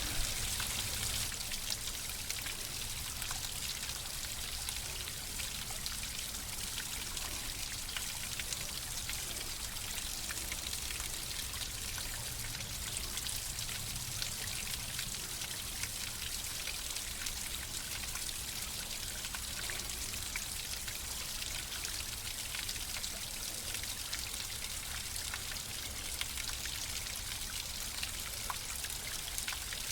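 Water flowing and trickling steadily, a continuous splashing hiss with small droplet patters.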